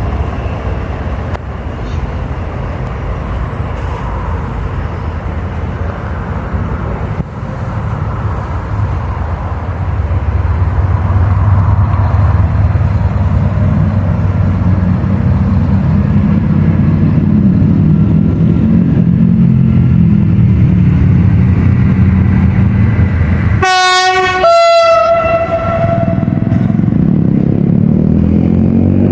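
Diesel locomotive approaching, its engine rumble growing louder, then sounding its horn twice: a short blast followed by a longer, higher-pitched one. Near the end the engine note rises.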